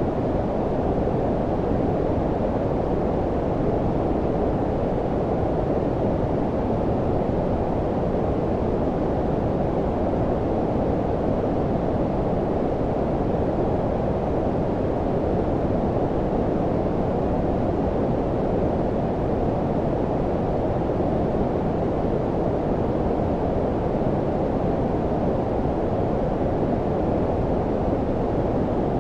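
Steady low-pitched synthetic noise, brown-noise-like, with most of its weight below about 1 kHz and little treble; it holds perfectly even, with no changes.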